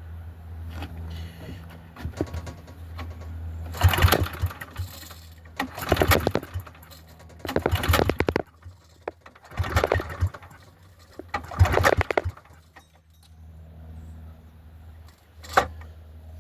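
Old generator's pull-start cord yanked about five times in a row, each pull a rasping turn-over of the small engine that never catches: a cold engine failing to start. A single sharp click near the end.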